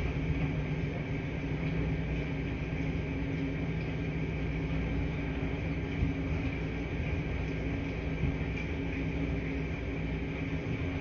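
Washing machines running with a steady hum and a few held tones, with a couple of faint knocks.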